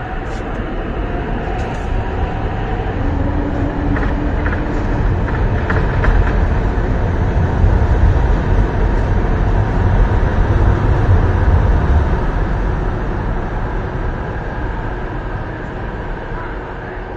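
MTR East Rail line R-Train electric multiple unit pulling out past the platform end into the tunnel: the running of its motors and wheels on the rails builds to its loudest about eight to eleven seconds in, then fades as the train moves away.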